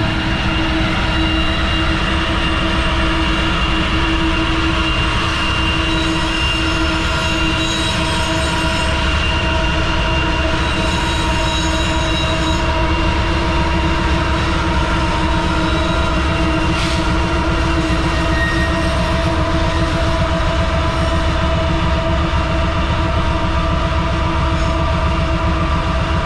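Coal train rolling steadily at speed: a continuous rumble of the cars with several steady high ringing tones held over it.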